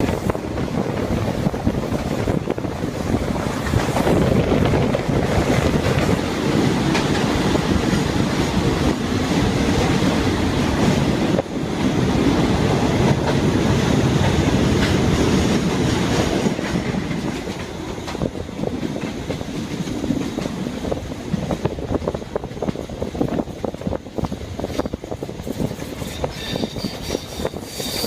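A train hauled by a State Railway of Thailand Alsthom diesel-electric locomotive running along the track, its wheels clattering over the rail joints. Near the end, high thin squealing tones come in, typical of wheels squealing on the rails.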